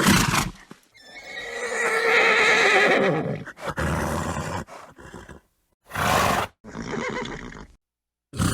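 Horse neighing: a long, quavering whinny about a second in, between shorter separate bursts of horse calls and snorts, with sudden silent gaps between them.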